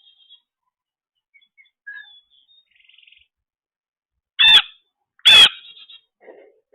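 Birds calling: a few faint, short chirps, then two loud, harsh calls just under a second apart, about two-thirds of the way in.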